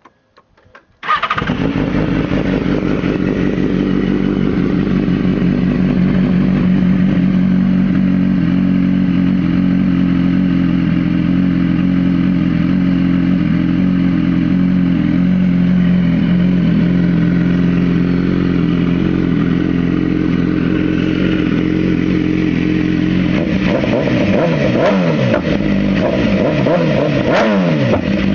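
2010 BMW S1000RR's 999 cc inline-four engine starting after a few clicks about a second in, then idling steadily. From about 23 seconds in the throttle is blipped repeatedly, the revs rising and falling in quick succession.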